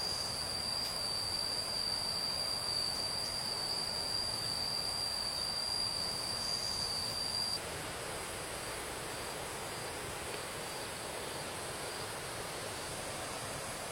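An insect's steady, high-pitched, unbroken trill over the even rush of running stream water. The trill cuts off abruptly about halfway through, leaving only the stream.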